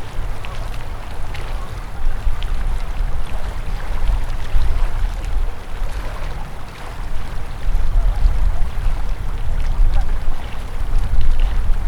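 River water flowing, a steady rush with scattered small splashes and a heavy, uneven low rumble underneath.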